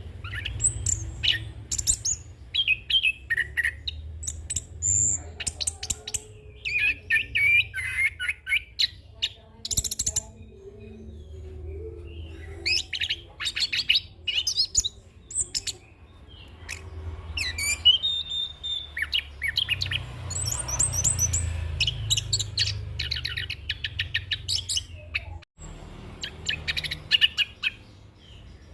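Chestnut-capped thrush (anis kembang) singing a long, varied song of rapid chirps, whistles and trills strung together with mimicked phrases, broken by short pauses. A low hum runs underneath.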